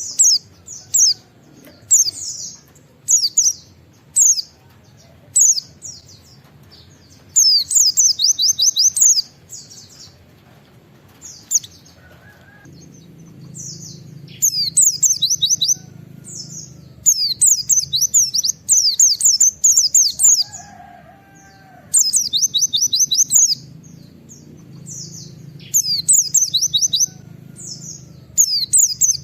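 A white-eye (pleci) singing: loud, high-pitched bursts of rapid repeated 'wit wit' notes, phrase after phrase with short pauses between them.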